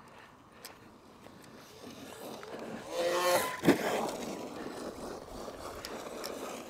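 Arrma Mojave 4S BLX RC truck's brushless motor whining up in pitch about three seconds in, followed by a sharp knock and then the truck running on dirt.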